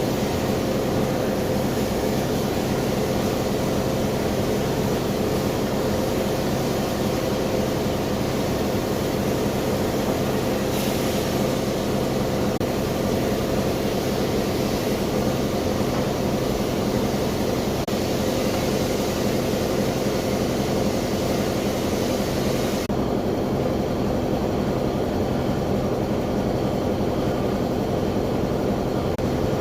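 Car-wash pressure washer running steadily with a constant motor and pump hum under a hiss of spray. The hiss drops away suddenly about three quarters of the way through while the hum goes on.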